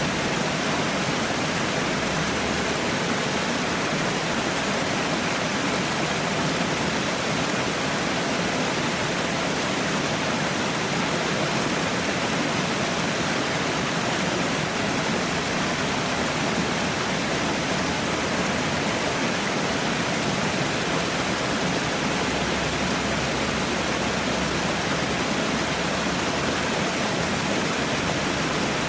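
Falling water splashing down in a steady, unbroken rush.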